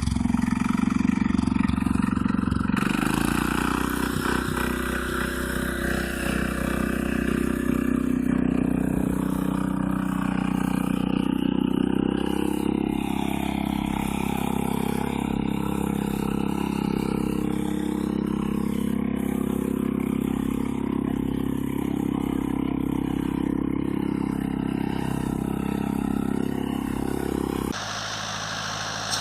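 Mini tractor engine running steadily. The sound changes abruptly about three seconds in and again near the end.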